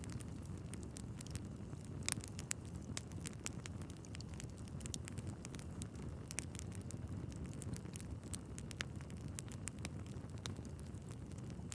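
Wood fire burning in a fireplace: a steady low rumble of flames with frequent sharp crackles and pops from the logs, irregularly spaced.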